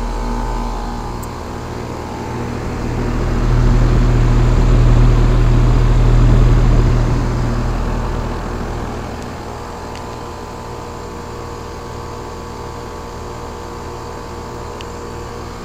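2001 Trane XE1000 Weathertron heat pump running steadily, its compressor humming under the outdoor fan, with frost forming on its copper tubing. A few seconds in, a louder swell of low rumble and rushing noise builds and fades away over about six seconds.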